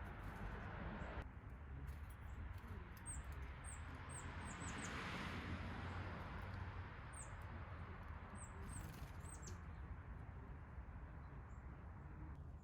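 Small backyard birds giving short, high, thin chirps that slide downward, in two quick clusters, over a steady low outdoor background.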